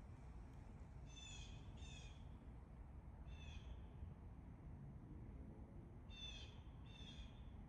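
A wild bird calling five times in short, clear-pitched notes, grouped two, one, then two, over a faint low outdoor rumble.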